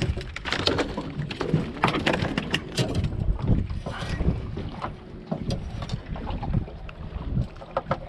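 Wind rumbling on the microphone, with irregular knocks and clatter scattered throughout.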